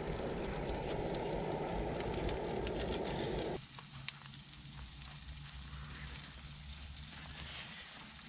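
Bacon and common puffball slices frying in a pan over a campfire: a steady sizzle with fine crackling. A fuller layer of the sizzle stops abruptly about three and a half seconds in, leaving a fainter crackle.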